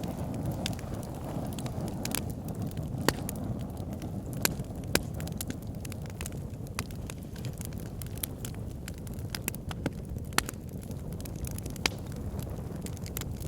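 Backyard fire pit fire crackling: irregular sharp pops and snaps, a dozen or so louder ones, over a steady low rumble.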